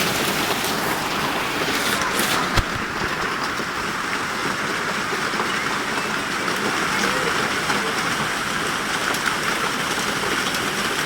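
Steady rain falling, an even hiss with one sharp knock about two and a half seconds in.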